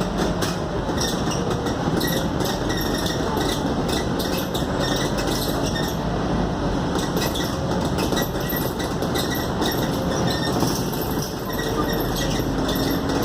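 Scania K280UD double-decker bus heard from inside while on the move: steady engine and road noise with frequent clinking and rattling of the interior fittings, and a faint wavering whine.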